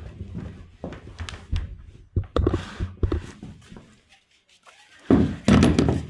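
Knocks and clatter from tools and parts being handled during a dirt-bike oil change. The loudest, longer bursts of noise come about five seconds in.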